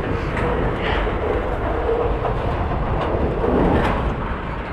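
Freight train running at speed, heard from a rider on an open car: a steady heavy rumble and rattle with a few sharp clanks.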